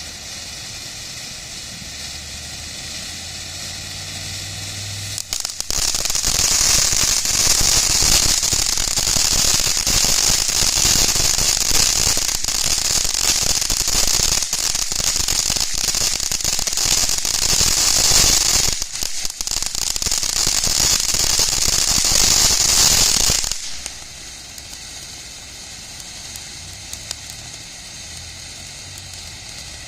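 TNT Wizard Alley fountain firework spraying: a loud, hissing crackle that starts about five seconds in, falters briefly about two-thirds of the way through, and stops suddenly a few seconds before the end.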